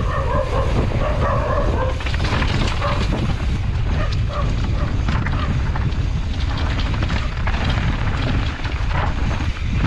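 Wind buffeting the microphone of a camera on a moving mountain bike, with the clatter and crunch of the bike over a rough trail. There are a few short pitched calls in the first two seconds.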